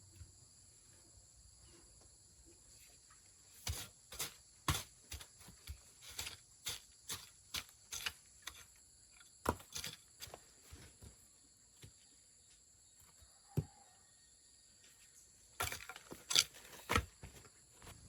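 Irregular sharp knocks and clicks, a dense run of them and then a second short cluster near the end, over a steady high chirring of insects.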